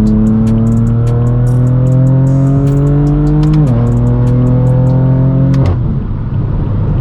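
BMW M4 F82's twin-turbo inline-six accelerating through a straight-piped, non-resonated AWE Track exhaust. The pitch climbs steadily, drops sharply with an upshift about three and a half seconds in, then climbs again and falls away near six seconds as the throttle comes off.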